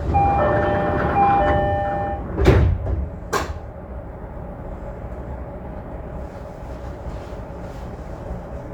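Inside an Odakyu 5000-series electric train car standing at a station: a multi-note door chime sounds for about two seconds, then the sliding doors shut with two thuds about a second apart. After that the stopped car's steady equipment hum carries on.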